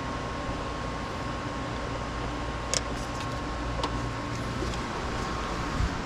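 Steady mechanical hum, with a couple of sharp clicks about three and four seconds in and a short low thump near the end.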